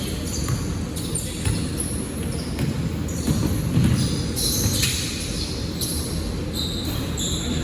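Basketball being dribbled on a court during a game, with sharp knocks and short high-pitched squeaks over a steady low rumble of court noise.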